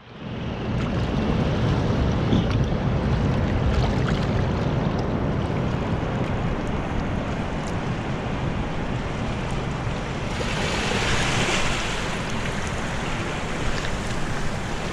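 Wind buffeting the microphone in a blizzard: a steady low rumble with a stronger hissing gust about ten seconds in.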